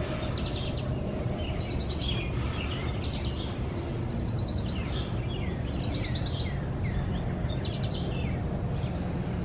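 Songbirds singing, a run of short rapid high trills and down-slurred notes repeating about every second, over a steady low outdoor background rumble.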